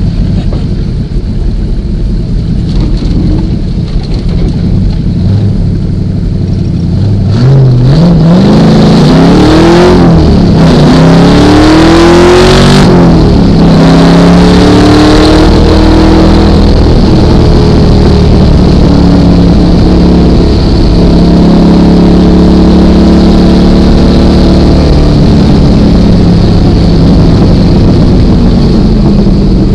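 Datsun 240Z's engine running low and steady for about seven seconds, then accelerating hard at full throttle: the pitch climbs, drops at an upshift, climbs again and drops at a second shift. After that it runs loud at speed, the revs rising and falling.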